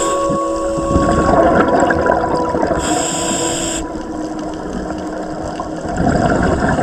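Scuba diver breathing through a regulator underwater: a hissing inhale about three seconds in, with the rushing and bubbling of exhaled air before it and again near the end.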